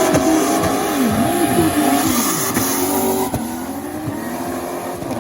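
Turbocharged V8 in a drifting BMW E30, revs swinging up and down in quick repeated throttle blips, with tyres screeching. The sound drops in level about three seconds in as the car moves off.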